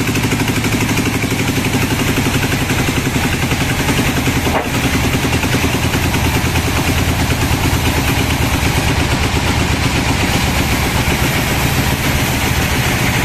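Sawmill engine running steadily with an even pulse, with a brief knock about four and a half seconds in.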